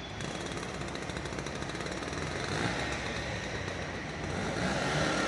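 A vehicle engine running close by with a fast, even rattle, growing louder near the end.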